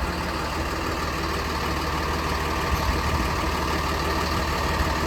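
Converted school bus's engine idling steadily, driving the chassis air-conditioning compressor while refrigerant is being charged into the system.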